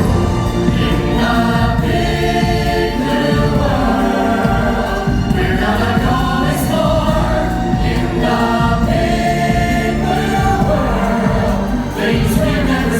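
A stage-musical song: a chorus of voices singing together over a full instrumental backing track.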